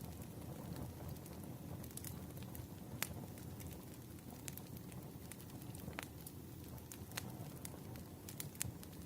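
Campfire burning: a steady low rumble of flames with scattered sharp crackles and pops, two of them standing out about three and six seconds in.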